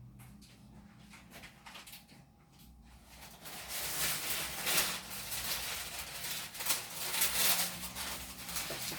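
Handling noises: a few faint clicks, then from about three and a half seconds in, a run of rustling with light knocks and clatter.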